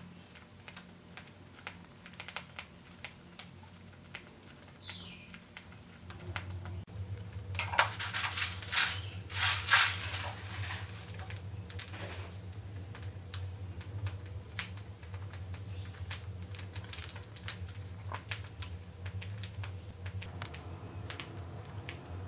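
Cockatiels husking millet seeds with their beaks: a long run of small, quick, irregular clicks, with a few louder rustles about eight to ten seconds in.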